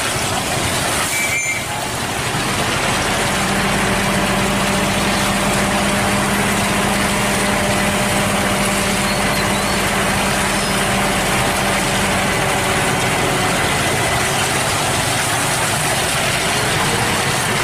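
Heavy truck engine running steadily at a construction site, with a steady hum that comes in about three seconds in and stops about twelve seconds in.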